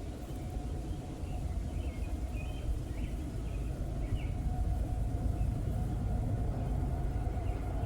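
BNSF freight train rumbling along the track, growing gradually louder.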